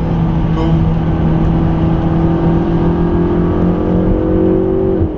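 McLaren 650S's twin-turbo V8 pulling under acceleration, its note climbing slowly and steadily. Near the end the revs drop sharply.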